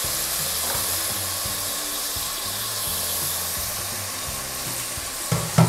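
Chicken pieces frying in oil and masala in a pressure cooker, a steady sizzle, with two sharp knocks near the end.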